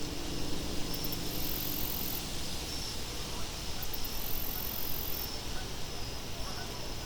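Crickets chirping in a steady rhythm over a low, even wind-like hiss. A very high insect trill comes in about every three seconds, each burst lasting around a second.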